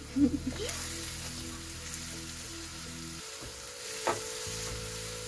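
Chopped red onion and green and red peppers sizzling steadily as they fry in a wok, stirred with a wooden spoon. Two light knocks of the spoon on the pan, one under a second in and one about four seconds in.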